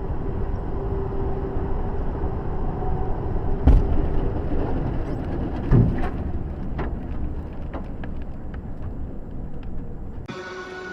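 Steady vehicle road and engine noise with two sharp thumps about two seconds apart, followed by a few smaller knocks.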